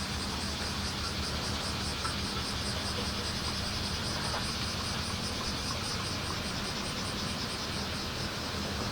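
Bear cicadas (kumazemi) singing, a steady high buzz that pulses about three or four times a second, over a steady low rumble.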